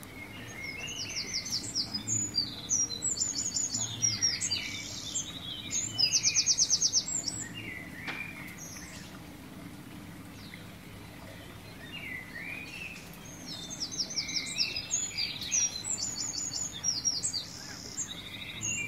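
Songbirds singing and chirping, with quick high trills. The song comes in two bouts: one in the first several seconds and another from about twelve seconds in.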